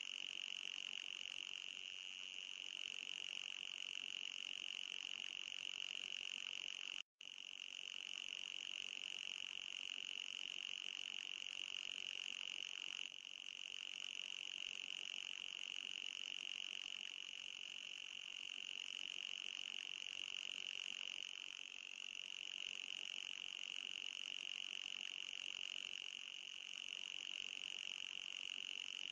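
Anti-mosquito repeller sound effect: a steady, high-pitched electronic buzz that cuts out for an instant about seven seconds in.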